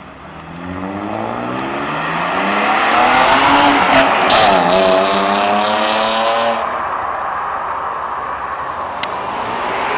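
A car engine revving hard as the car pulls away, its pitch climbing for about four seconds, dipping briefly, then rising again, with a loud hiss of spinning tyres at the peak.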